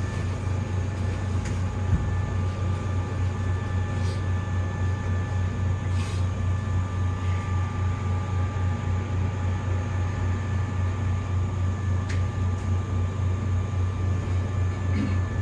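Hankyu 7300 series electric train standing at a station with its equipment running: a steady low hum with a regular throb, thin steady high tones above it, and a few faint clicks.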